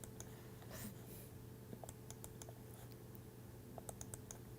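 Faint, scattered light clicks at a computer, a dozen or so at uneven intervals, over a steady low electrical hum.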